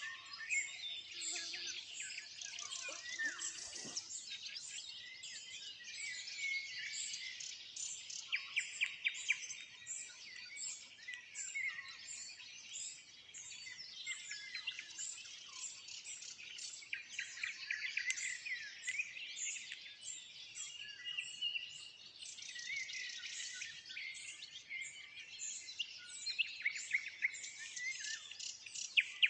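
Dawn chorus of many songbirds, with nightingales singing among them. Overlapping whistles and chirps sound continuously, broken by runs of fast repeated notes.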